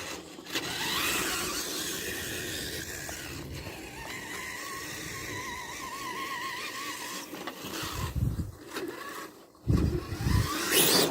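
Tamiya TXT-2 RC monster truck driving, its motor and gearbox giving a whine that wavers in pitch with the throttle. The gears are ones the owner says are still bad. A few heavy low thumps come near the end.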